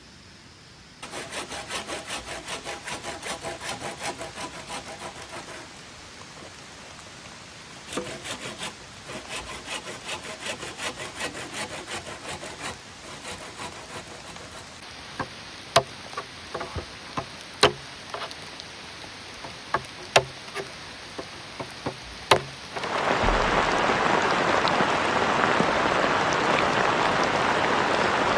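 Bamboo being sawn by hand in two runs of quick, even rasping strokes, followed by several sharp, separate knocks. Near the end, steady heavy rain comes in, louder than everything before it.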